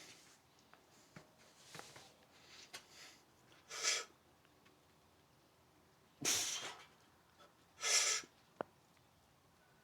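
Three short, forceful hissing exhales, one every couple of seconds, as a man pushes up through repetitions of weighted dips, with a single sharp click shortly after the third.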